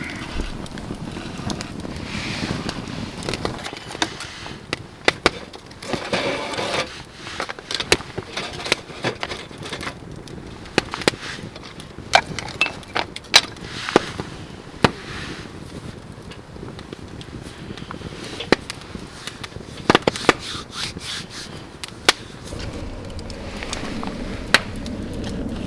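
Irregular sharp cracks and knocks of wood, one every second or so, with short stretches of scraping and rustling between them.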